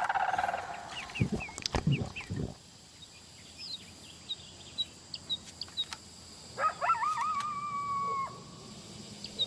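Woodland ambience: small birds chirping in short high notes, a few thumps about one to two seconds in, and one drawn-out animal call near the end that wavers at first and then holds steady for about a second and a half.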